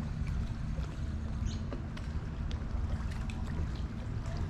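Water lapping and trickling against a kayak hull over a steady low rumble, with scattered light ticks.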